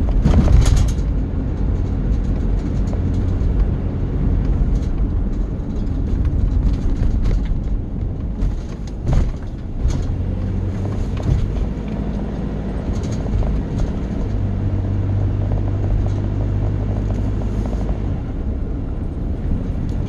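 Vehicle engine running with a steady low rumble. A brief loud clatter comes about half a second in, and a few sharp knocks come about nine and ten seconds in. A steadier low hum sets in about two thirds of the way through.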